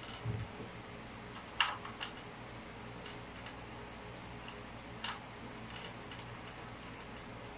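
A few scattered sharp clicks and light knocks, the loudest about one and a half seconds in and another about five seconds in, over a steady low hum.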